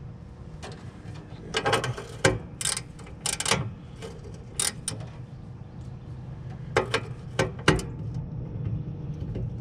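Irregular metallic clicks and clinks of a hand tool being handled and tried on a small nut.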